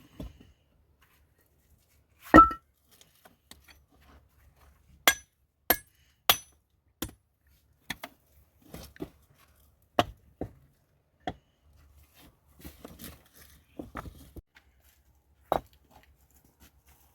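Irregular sharp knocks and clinks, about a dozen at uneven spacing, the loudest a heavy knock about two seconds in. Several have a short high metallic ring.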